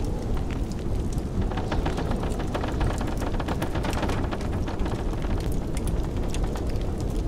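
Wood fire crackling in a fireplace, with many small sharp pops, over a steady low rumble of blizzard wind.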